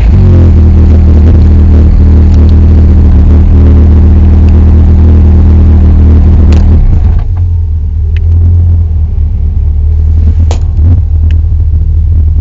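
Caterham Seven's engine idling steadily at a standstill, heard loud from on board. About seven seconds in, the higher part of the note drops away while the low idle runs on, with a few sharp clicks.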